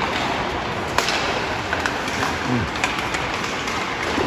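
Hockey game play sounds: a steady rush of rink noise with a few sharp clacks, the loudest about a second in.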